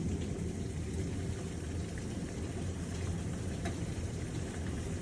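Heavy storm rain falling steadily, a continuous even rush with a low rumble beneath it.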